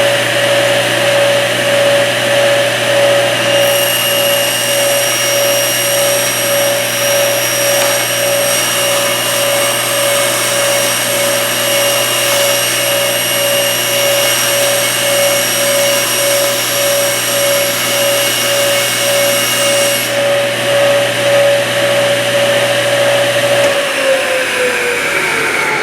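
Table saw with a combination blade running steadily while ripping a sheet of plexiglass, with a higher whine during the cut from a few seconds in until about three-quarters through. Near the end the saw is switched off and its pitch falls as the blade spins down.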